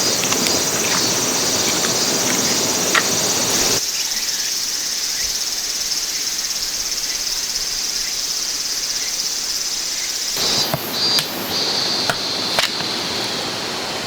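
A steady, high-pitched insect chorus over the rush of a stream. About four seconds in the low water noise drops away abruptly, leaving mostly insects. Near the end the insect sound turns pulsing, with a few light clicks.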